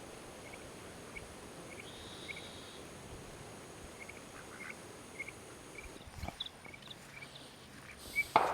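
Farmyard ambience: short high bird chirps every half second or so over a steady high insect hum, with a knock about six seconds in and a louder thump near the end.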